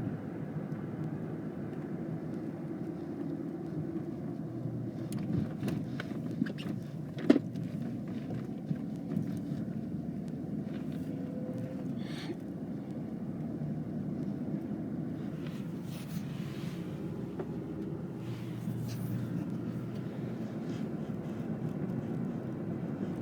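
Steady low rumble of a car heard from inside the cabin, with a few scattered clicks and knocks; the sharpest knock comes about seven seconds in.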